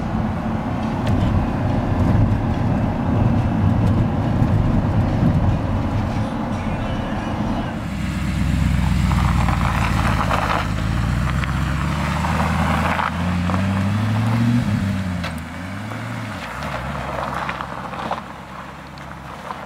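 The 4.2-litre V8 of a 2012 Audi R8 Spyder, first heard from inside the cabin while driving, with engine and road noise. About eight seconds in the sound switches to the car heard from outside, its engine note rising and falling as it pulls away, then fading.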